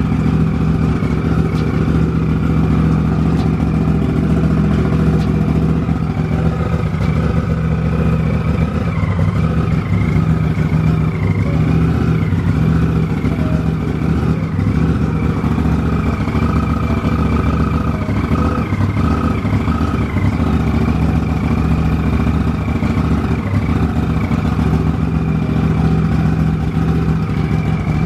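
Turbocharged Polaris RZR 1000 parallel-twin engine running steadily on its first start-up after a big-turbo build, warming through a heat cycle. A high whistle wavers in pitch above the engine note.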